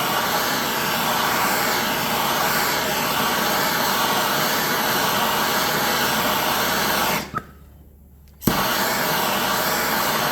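Propane torch flame burning with a steady hiss while heating a bent lip of a motorcycle rim. The sound drops away for about a second near the end, then comes back abruptly.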